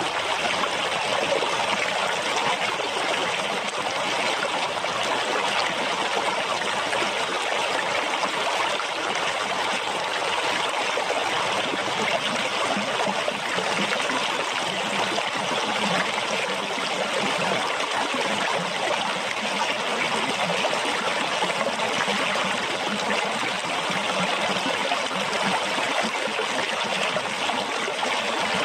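Flowing water splashing and trickling steadily, without pause or change.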